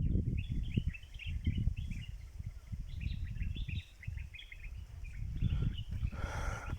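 Small birds chirping rapidly and repeatedly over a louder, uneven low rumble, with a short rustling noise near the end.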